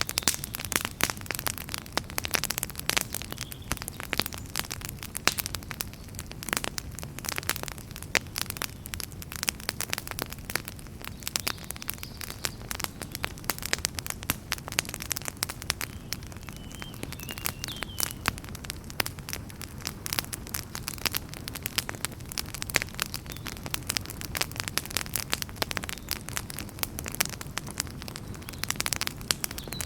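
Wood fire burning in a fireplace, crackling with dense, irregular snaps and pops over a low steady rumble of the flames.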